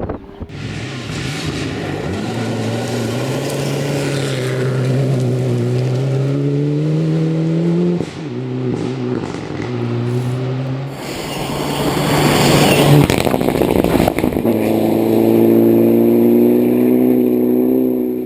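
Rally car engine under hard acceleration, its pitch climbing steadily and then dropping at a gear change about eight seconds in. It climbs again, then a louder rushing noise peaks around twelve to thirteen seconds before the engine settles to a steady note near the end.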